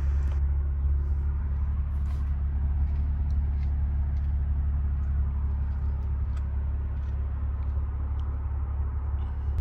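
Steady low hum of the car running, heard from inside the cabin, with a few faint ticks over it.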